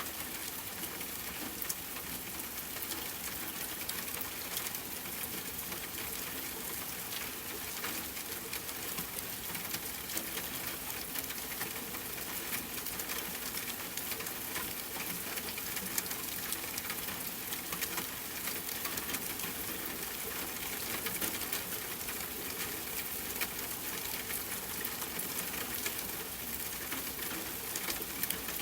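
Rain falling steadily on a tent, mixed with campfire crackling: a constant hiss dotted with many small sharp clicks.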